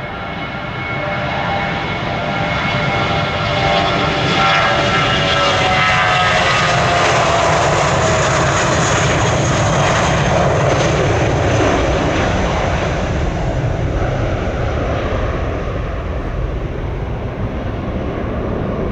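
Jet airliner passing close by: its engines' whine glides down in pitch as it goes past, over a broad rumble that peaks a few seconds in and then slowly fades.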